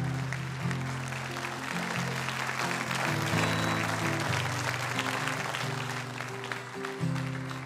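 A congregation applauding over soft instrumental background music that holds sustained chords, its bass notes changing every second or so.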